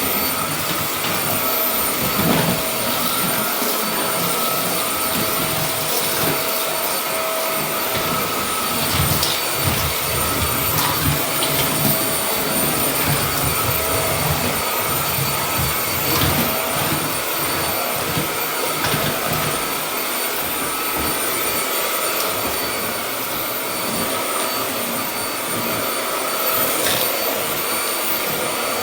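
Hoover Air cyclonic vacuum cleaner running steadily with a high motor whine, sucking up fine drywall dust from a hard floor.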